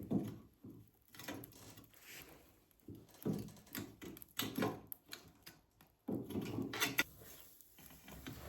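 Wood-burning stove being tended: irregular wooden knocks and clacks of firewood being handled, with louder thuds about three, four and a half, and six seconds in.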